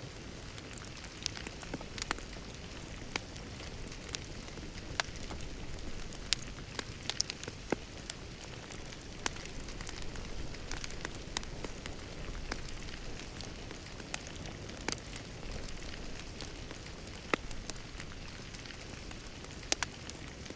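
Wood fire crackling in a fireplace: a steady low rush of flames with irregular sharp pops and snaps, a few every second.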